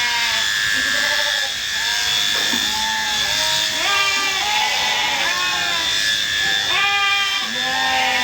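Several sheep bleating over and over, overlapping calls with the loudest about four and seven seconds in, over the steady whine of electric sheep-shearing clippers.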